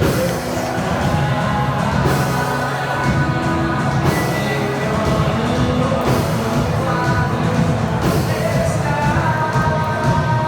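Worship band playing a rock-style song with singing, with strong accented hits about every two seconds.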